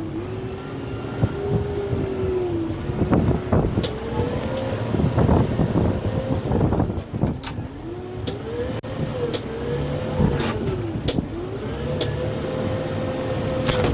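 Kubota M6-141 tractor's diesel engine working under hydraulic load, its note sagging and recovering again and again, while the root grapple tears at pecan roots with sharp cracks and snaps.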